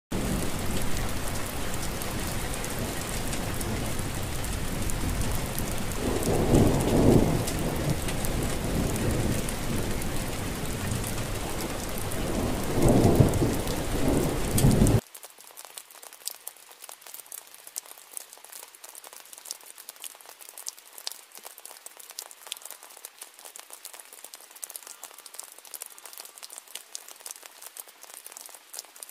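Heavy rain falling steadily, with two rolls of thunder swelling up, about six and about twelve seconds in. About halfway through it cuts off suddenly and gives way to a much quieter, thin patter of raindrops.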